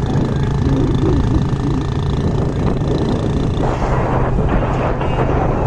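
A motor running at a steady pitch, with a louder noise joining about two-thirds of the way in.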